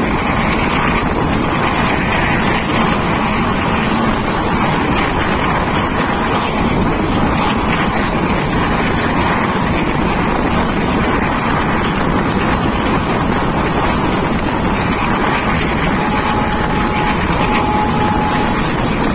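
Loud, steady rush of wind and running noise heard from the window of a moving passenger train, with no clear rhythm.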